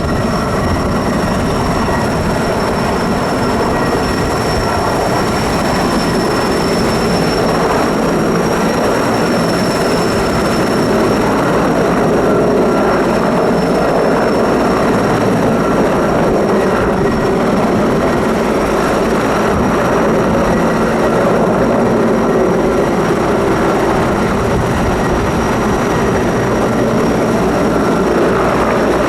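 Large firefighting helicopter running close by: a steady heavy rotor and engine noise with a high, steady turbine whine above it, a little louder from about halfway.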